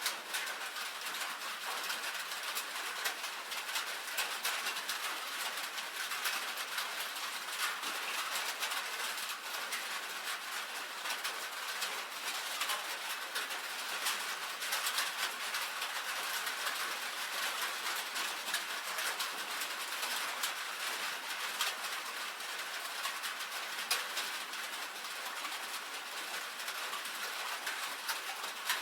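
Rain falling steadily on a tin roof: a dense, even hiss of drops with many small sharp ticks of individual drops striking the metal.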